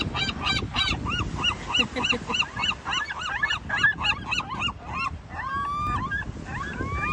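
A flock of geese honking, a rapid series of short arched calls about four a second. About five seconds in they give way to a few longer calls that rise and then hold steady, over a steady low rumble.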